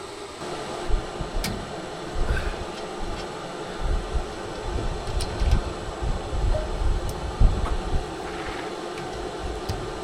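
Wind rumbling in irregular gusts on the microphone over a steady hiss, with a few sharp light clicks.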